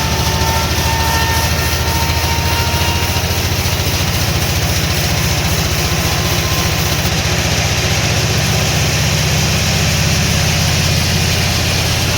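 A heavy engine running steadily at an even, low idle-like pace, with a fast regular pulse and no rise or fall; faint higher tones sound briefly in the first few seconds.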